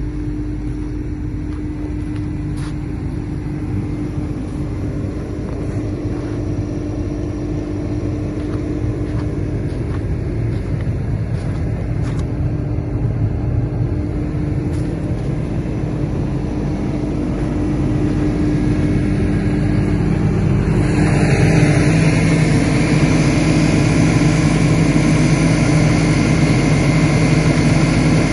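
Caterpillar 323D L excavator's diesel engine running steadily, growing louder and fuller about twenty seconds in.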